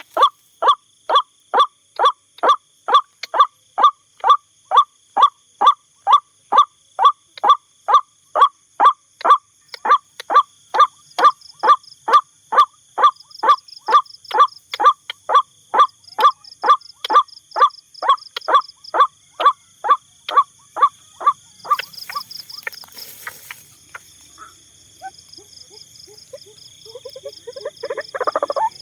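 White-breasted waterhen calling a long, steady series of harsh repeated notes, about two to three a second, over a high, steady insect trill. The series fades and stops about three-quarters of the way in, followed by a brief rustle and then lower croaking calls near the end.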